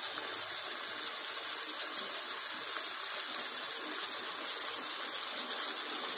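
Chicken curry sizzling steadily in its oil in a pan over a high flame, a continuous even hiss. This is the masala frying down (kosha) with the oil separating from it.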